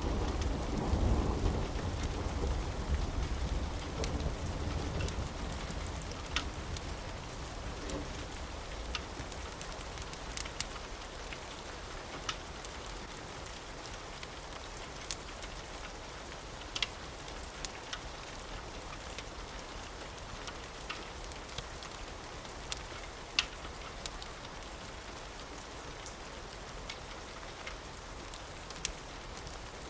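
Steady rain with a low rumble of thunder that fades away over the first several seconds, then rain alone with scattered sharp ticks.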